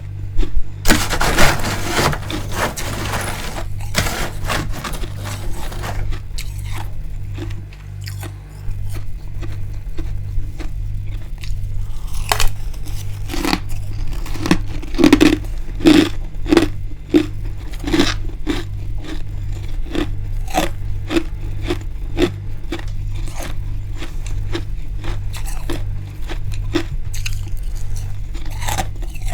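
Freezer frost and ice being bitten, scraped and chewed: a long dense scraping crunch about a second in, then a run of short crisp crunches and clicks. A low hum pulsing about once a second sits underneath.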